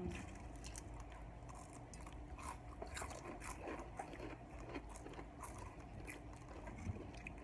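Close-miked chewing of crunchy chips: a steady run of irregular, crisp crunches.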